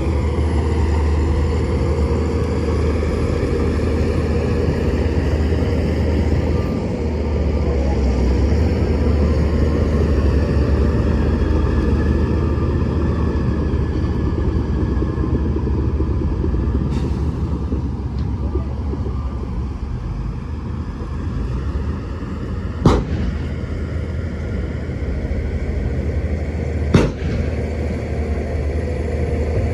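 Shantui DH17-C2 bulldozer's diesel engine running under load while pushing dirt, a steady low drone that eases slightly twice. Two sharp metallic clanks in the last quarter, about four seconds apart.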